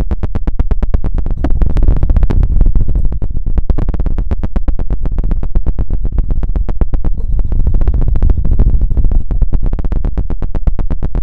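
Rapid scratching and knocking on an ear microphone with a feather-tipped ASMR rod, many quick strokes a second, loud with a heavy low rumble.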